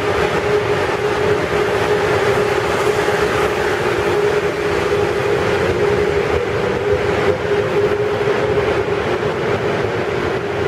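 Amtrak Acela Express electric trainset pulling out along a station platform: a steady rolling rumble with a constant hum throughout.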